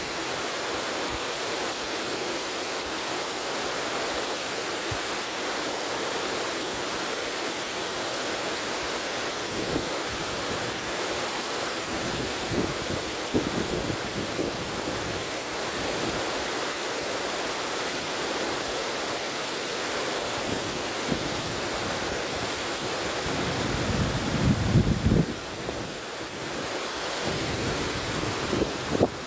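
A river rushing steadily, with wind gusting against the microphone, the strongest gust near the end.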